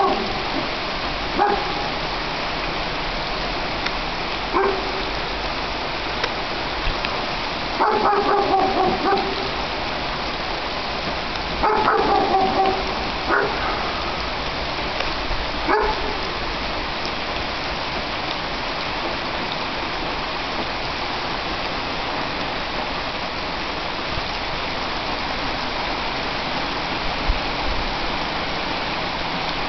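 Heavy rain falling steadily on trees and ground. A dog barks several times in the first half, with a few drawn-out calls of about a second each.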